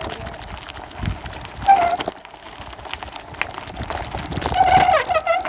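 Bicycle rolling over a rough, bumpy trail, with the phone camera duct-taped to the handlebars rattling and clicking at every bump, and rushing noise. A short high squeal comes about two seconds in, and a longer wavering one near the end.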